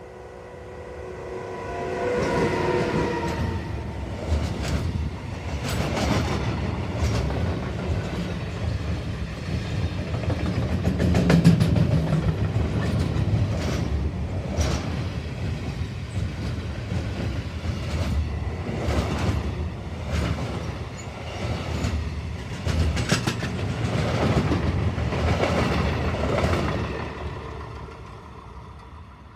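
DB Class 152 electric locomotive passing with a freight train of boxcars: a steady whine from the locomotive in the first few seconds, then the rumble and repeated clatter of the wagons' wheels on the rails. The sound fades as the train moves away near the end.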